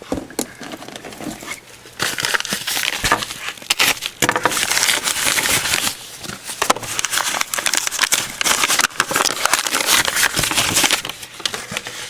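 Packaging being handled and opened: a run of irregular crinkling, rustling and crackling of paper and plastic, loudest from about two seconds in until just before the end.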